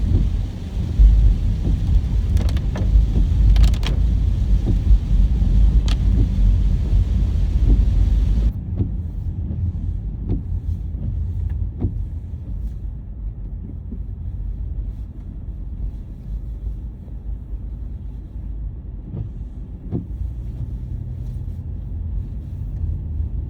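Car on the move: a steady low road-and-engine rumble with a few scattered clicks. About eight seconds in, the high hiss drops away abruptly and the rumble goes on quieter.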